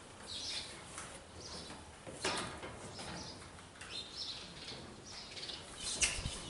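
Birds chirping repeatedly outdoors, with two sharp knocks, one about two seconds in and a louder one near the end.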